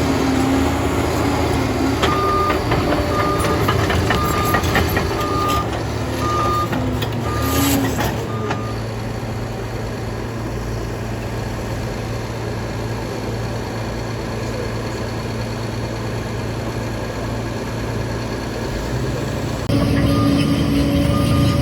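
Liebherr 746 crawler dozer running under load, its reversing alarm beeping about once a second while it backs up. The beeping stops about eight seconds in as the engine drops to a steadier, quieter run, then the engine picks up and the beeping starts again near the end.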